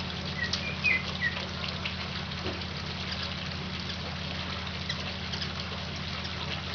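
A few short, high chirps from hummingbirds squabbling at a feeder, clustered between about half a second and a second and a half in, over a steady low hum and hiss.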